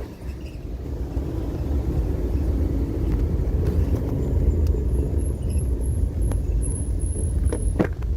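Steady low rumble of a moving motor vehicle, engine and road noise, with a few light clicks near the end.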